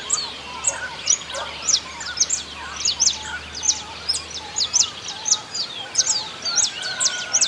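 A chorus of many small birds singing at dawn, with rapid, high-pitched chirps several times a second throughout, and a few lower calls beneath them.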